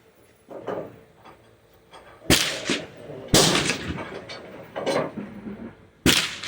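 Gunshots at a shooting range, three sharp reports a second or more apart, each trailing off in a short echo.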